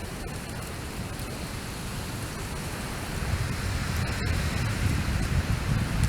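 Wildfire burning close to the microphone: a steady roar with low, gusty rumbling that grows stronger about three seconds in.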